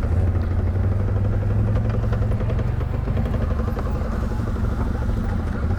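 ATV engine running steadily with an even, constant hum.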